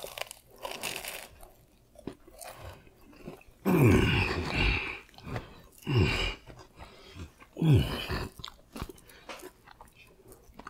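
Close-up crunching and chewing of crispy fried food, with three loud, low 'mmm' moans of enjoyment through closed lips, each falling in pitch, about four, six and eight seconds in.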